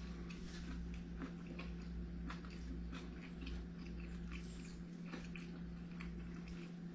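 A person chewing and eating chicken wings with their mouth, a run of irregular short wet clicks and smacks. A steady low hum runs underneath.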